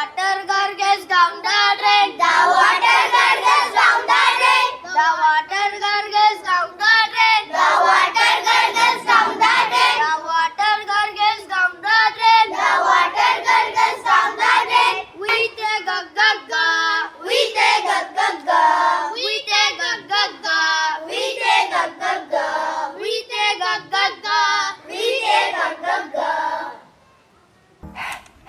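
A group of children singing a phonics song together, breaking off about 27 seconds in.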